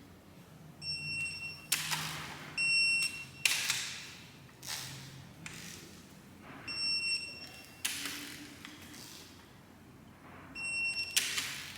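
Cylinder head bolts being torqued on a Cummins 6BT diesel with what sounds like an electronic torque wrench: a short high beep four times, each marking a bolt reaching its set torque. Short noisy rasps from the wrench work fall between the beeps.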